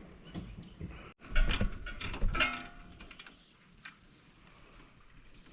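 A cluster of mechanical clicks and rattles, between about one and three seconds in, from hands-on work on a pressure washer's small gas engine that fires but gets no fuel.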